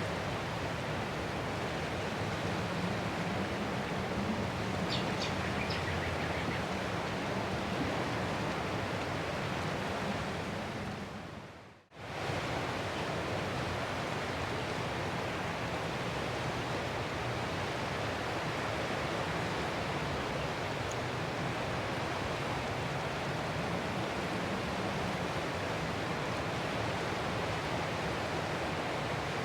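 Ocean surf washing ashore as a steady, even hiss. About ten seconds in it fades away, drops out for a moment near twelve seconds, then cuts straight back in at full level.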